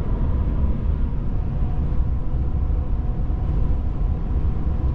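Steady low road and engine rumble heard inside a moving car's cabin, with a faint steady whine above it.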